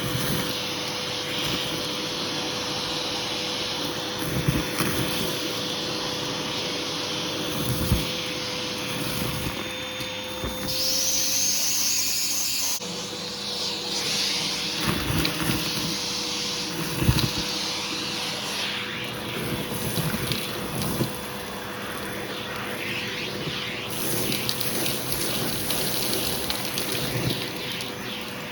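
Hoover vacuum cleaner running steadily through its hose tool, a constant motor whine over the rush of suction. There is a short bright hiss of air a little past the middle, and a few knocks of the tool against the floor.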